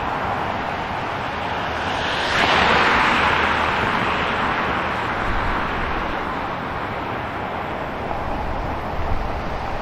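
City street traffic: a steady wash of road noise, with one vehicle passing close about two seconds in, its tyre noise swelling and then fading away over a few seconds.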